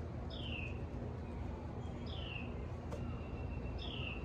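A bird repeatedly giving a short call that slides downward, about once every second and a half, over a steady low outdoor rumble. A faint single click comes about three seconds in.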